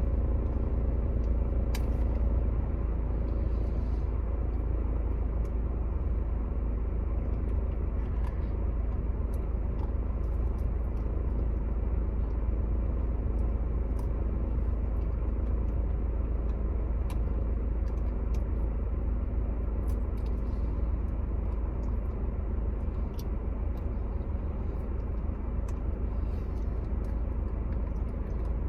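A steady low rumble, with scattered faint clicks and taps over it.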